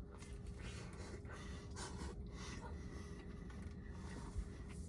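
Faint chewing of a bite of Chicago-style cheese pizza, soft wet mouth sounds close to the microphone.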